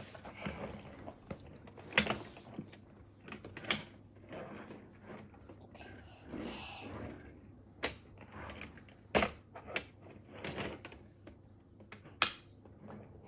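Irregular sharp clicks and small knocks from a 1:32 diecast toy Jeep Gladiator being handled, its little doors snapped open and shut.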